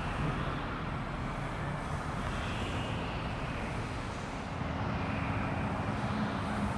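Steady engine and road noise of a moving vehicle, with a low engine hum coming up about four seconds in.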